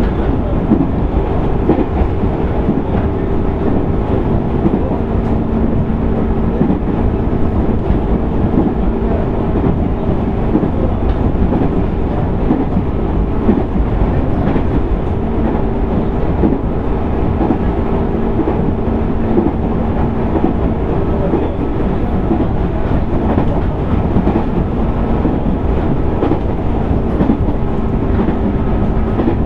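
Running sound heard inside a JR East 205 series 600 subseries electric multiple unit motor car (MoHa 204-604) travelling at a steady speed: a constant rumble of wheels on rail with a steady low hum held on a couple of fixed pitches.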